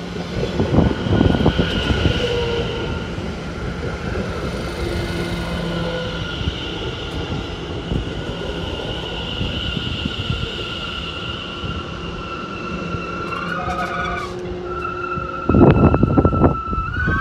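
London Overground Class 710 electric train running into the platform and slowing to a stop: wheels rumbling on the rails under a steady high-pitched electric whine, which shifts in pitch about three-quarters of the way through. A sudden louder rush of noise comes near the end.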